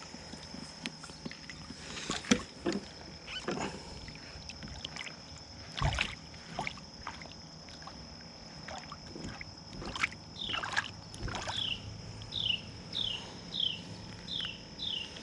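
Scattered knocks and water sloshing around a kayak, over a steady high insect drone. From about ten seconds in, a bird repeats a short descending chirp about twice a second.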